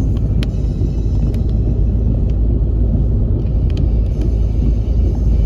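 Steady low road rumble of a car driving, heard from inside the cabin, with a few faint ticks.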